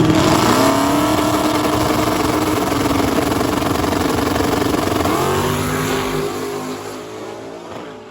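High-powered drag-racing engine running hard under acceleration, its pitch climbing about half a second in and again around five seconds in, then fading away near the end.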